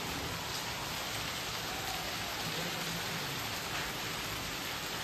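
Steady rain falling on wet paved ground and puddles, an even, unbroken hiss.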